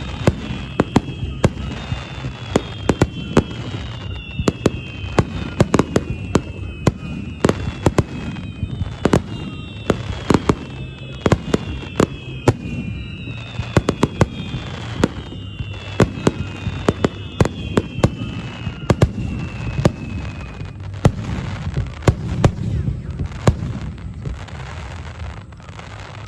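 Fireworks display: shells bursting in rapid succession with many sharp bangs. Over the first twenty seconds, repeated whistles fall in pitch, then stop.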